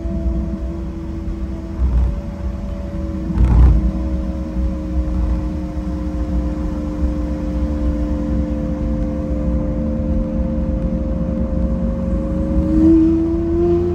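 Car engine running under way with a steady hum that sinks slowly in pitch, then rises near the end as it picks up speed, over a low road rumble. There is a brief thump about three and a half seconds in.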